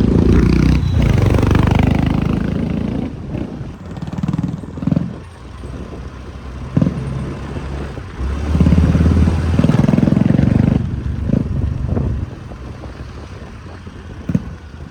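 Honda H'ness CB350's single-cylinder engine through an aftermarket Red Rooster performance exhaust, riding and pulling hard in two loud surges, one at the start and one about eight and a half seconds in, with quieter running between and short sharp blips of throttle. Very loud, with a strong thump.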